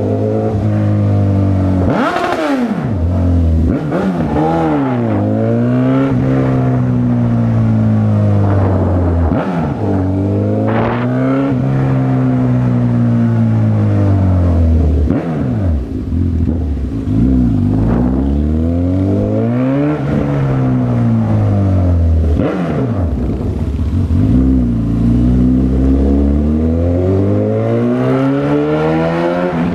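Honda CB1000R's inline-four engine under way, with its revs climbing and dropping again and again as the rider accelerates, shifts and rolls off the throttle.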